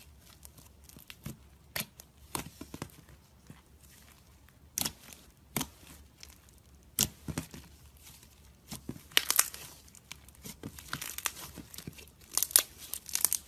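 Icee slime crackling as it is handled, its crusty top layer giving irregular sharp crackles, sparse at first and coming in thicker clusters about nine and twelve seconds in.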